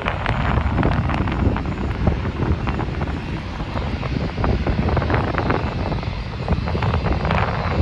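Jet airliner engine noise: a steady low rumble with irregular crackle, mixed with wind buffeting the microphone.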